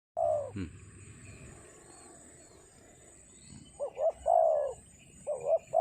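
Spotted dove cooing: a single note at the start, then from about four seconds in a phrase of two short notes and a longer falling note, begun again near the end.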